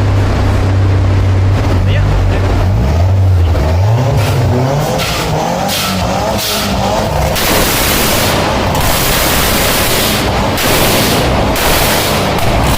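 Car engine running with a steady low note, then revved up with a rising pitch. From about seven seconds in come several loud, harsh blasts of exhaust noise with short breaks between them.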